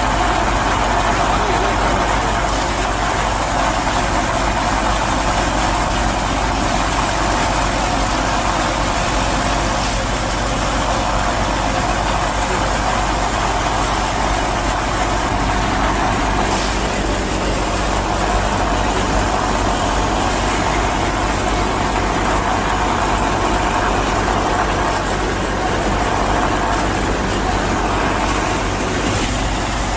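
A motor running steadily and evenly, with a constant low hum.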